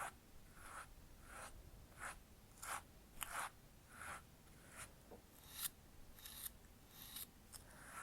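Eyebrow comb brushing through the brows in short, soft, scratchy strokes, about three strokes every two seconds.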